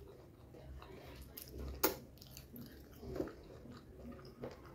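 Close chewing and mouth sounds of someone eating chicken biryani, with scattered soft clicks and one sharper click about two seconds in.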